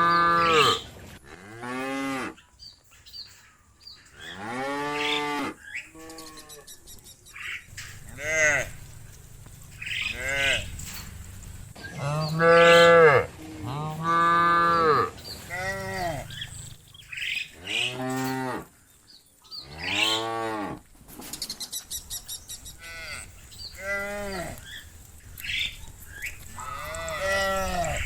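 Cows mooing again and again, a series of separate calls about a second long each, each rising then falling in pitch, coming every second or two with short pauses between them.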